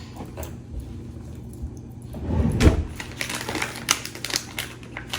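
Plastic salami packaging being handled: light crinkling and sharp small clicks, with a dull low thump a little over two seconds in.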